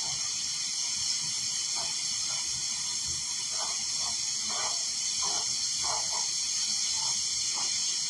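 Spiced nuts frying in an oiled frying pan: a steady sizzling hiss with faint, scattered crackles.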